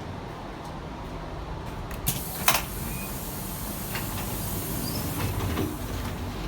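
Tangara suburban train heard from inside the carriage: a steady low rumble, with two sharp knocks about two seconds in, then a hiss.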